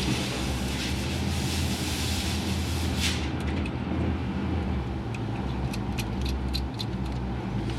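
A steady low mechanical hum runs throughout, with a hiss that stops about three seconds in. Several light, sharp clicks follow in the second half, likely from hand tools or parts being handled in the engine bay.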